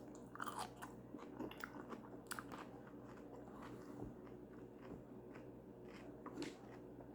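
Close-up chewing of a mouthful of food, with scattered small crunches and wet mouth clicks over a faint steady hum.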